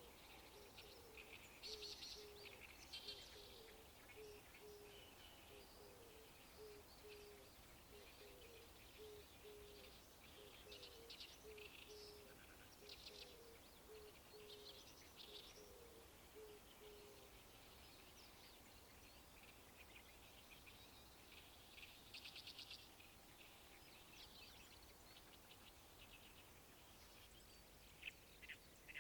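Faint birdsong: many short, high chirps and trills from small birds, with a low note repeated about twice a second through the first half.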